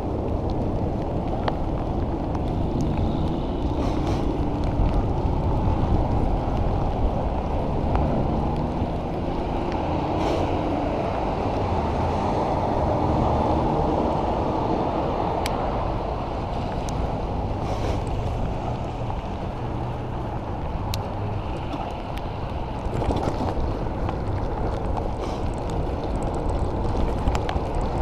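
Steady wind rush on the microphone while cycling, a low, muffled noise with a few faint ticks.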